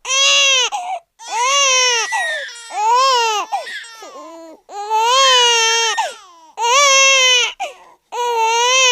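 Newborn baby crying hard: about seven separate wails of roughly a second each, every one rising and then falling in pitch, with short gasping breaths between them.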